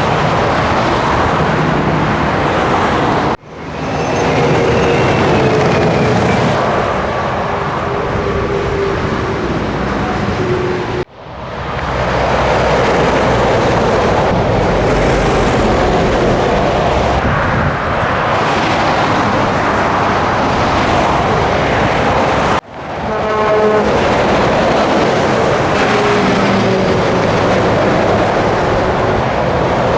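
Scania truck driving on the road: steady engine and road noise, with an engine note that slowly falls at times. The sound cuts out suddenly three times and fades back in each time.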